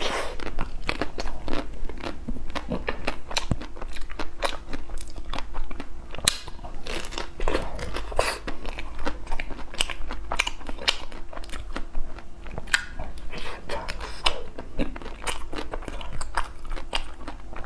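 Close-miked biting and chewing of a frozen ice cream bar on a stick, with many small irregular crunches and crackles as the frozen bar is bitten off and chewed.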